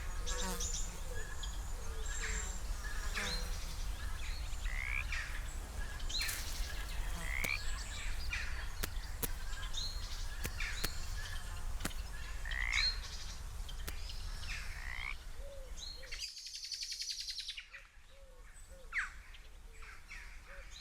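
Outdoor nature ambience: birds chirping and calling over a steady low hum, with frogs croaking. About sixteen seconds in the hum drops away, leaving a fast trill and a run of short, low, repeated calls.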